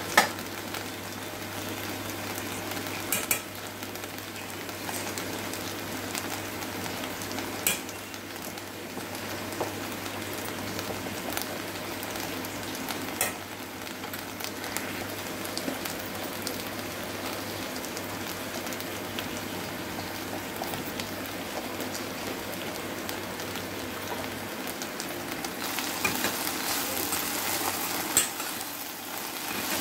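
Chopped okra sizzling and frying in oil in a stainless steel pan, with a few sharp clicks scattered through it. From about four seconds before the end a spatula stirs through the okra and the frying grows louder.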